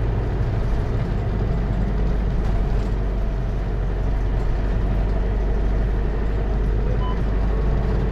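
Hino Liesse minibus's J05C diesel engine running steadily with its automatic transmission, heard from inside the cabin as a continuous low drone. A brief faint high tone sounds about seven seconds in.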